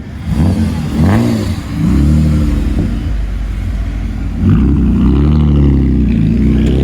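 Car engine being revved in repeated short blips, its pitch rising and falling several times.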